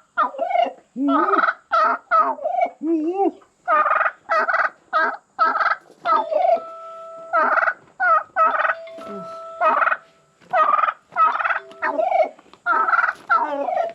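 Agitated domestic white turkey hen giving loud, rapid, repeated calls in a long string with brief pauses, the excited calling of a hen fired up and wanting to fight.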